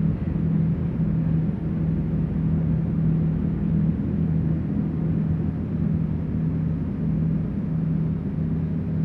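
A tender boat's engine running steadily, a constant low drone.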